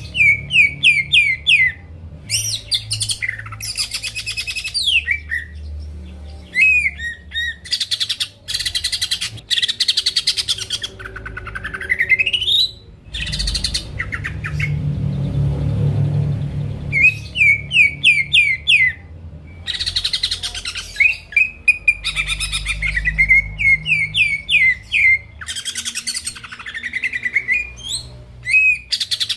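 Cucak ijo (green leafbird) singing a loud, varied song: quick runs of sharp chirps, buzzy trills and, about halfway through, a long rising whistle. A low hum runs underneath.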